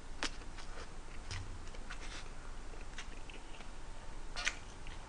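A man chewing quietly, with scattered soft clicks as a metal spoon touches the metal pot of kimchi stew, including one near the end as he scoops from the pot.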